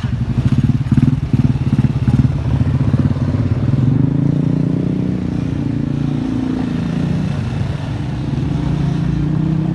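Motorcycle engine running at low revs with a rapid, even pulse, then revving up about four seconds in and holding a steadier, higher note as the bike is ridden.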